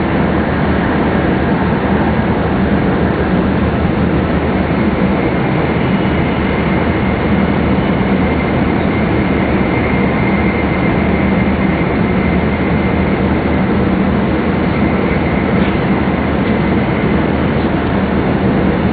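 Steady running noise of a Jōetsu Shinkansen MAX double-deck train at speed, heard inside the upper-deck passenger cabin: an even rumble of wheels and air with a faint high whine.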